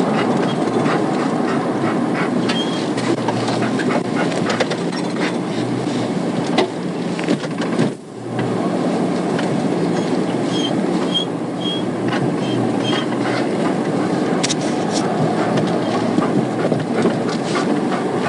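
Steady road and engine noise from inside a police patrol car driving fast in pursuit. The noise dips briefly about eight seconds in, and a few faint short high beeps follow.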